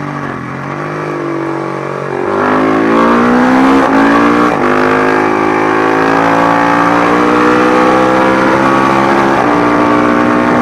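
Matchless G50 single-cylinder four-stroke racing motorcycle engine under throttle. It gets louder about two seconds in and its pitch climbs steadily as it accelerates, with a small dip in pitch near the end.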